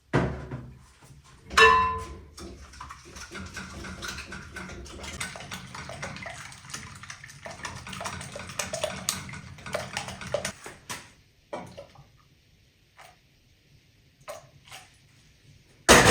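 Milk being poured into a bowl of pancake batter, a steady pour lasting several seconds, after a sharp ringing clink of kitchenware about two seconds in. A few faint clinks follow, and there is a loud knock at the very end.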